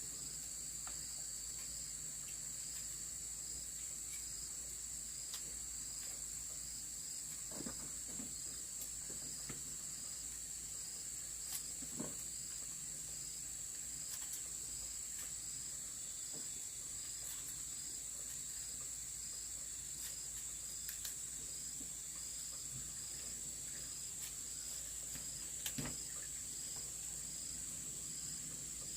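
Crickets and other insects chirping: a steady high trill with a regular pulsing chirp beneath it. A few faint clicks and knocks are scattered through it.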